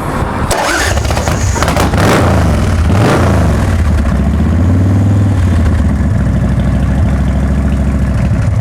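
A 2004 Big Dog chopper's S&S-carbureted V-twin is started through SuperTrapp mufflers. It catches at once, is revved up and back down a couple of times, then settles into an idle with a loping beat.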